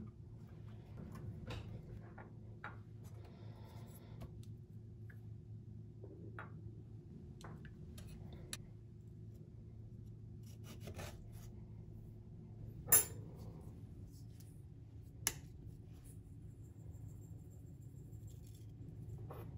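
Quiet small handling sounds: light rubbing and scattered soft clicks and taps, with two sharper clicks a couple of seconds apart about two-thirds of the way through, over a steady low hum.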